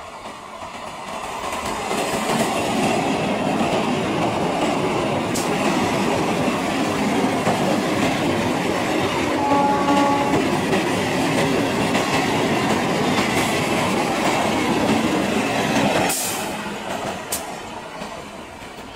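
Indian electric suburban local train (EMU) passing close by, its wheels rumbling and clattering over the rails as it builds to full loudness. A short horn toot comes about halfway through. The noise drops off sharply a few seconds before the end.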